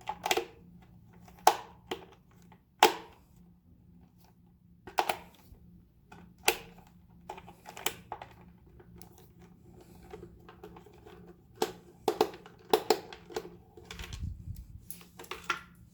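Irregular sharp clicks and knocks of a screwdriver and hands working on the plastic base of an ultrasonic humidifier as its screws are taken out.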